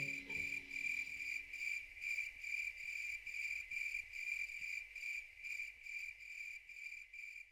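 Cricket chirping in an even pulsed trill, about three chirps a second, slowly fading. The last notes of the music die away in the first second or so.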